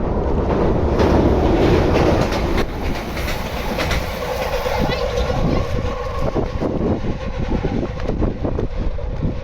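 Meitetsu μSKY electric train running past close by. Its wheels clatter over the rail joints in a run of sharp clicks through the second half, over a steady hum.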